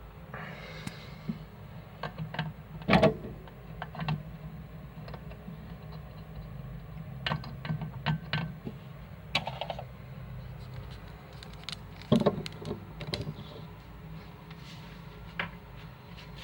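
Scattered clicks and knocks of small parts and tools being handled, irregular, with two louder knocks about three seconds and twelve seconds in, over a steady low hum.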